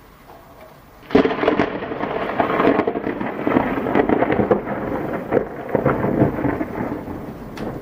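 Close thunderclap: a sudden crack about a second in, then thunder crackling and rumbling on loudly through the rest.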